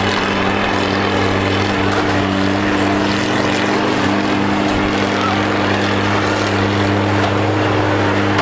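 Combine harvester engines running at a steady, unchanging pitch under a dense wash of noise.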